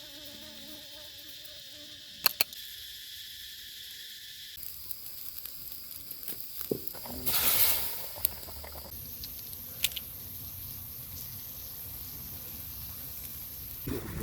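Forest insect chorus: a steady, high-pitched buzzing and trilling that changes character twice. Sharp clicks stand out about two seconds in and again near eight and ten seconds, and a short burst of noise comes a little past seven seconds.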